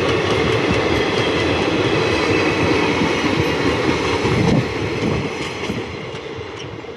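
Train running past on the rails, wheels and wagons rattling. The sound is loud and steady, then fades after about four and a half seconds.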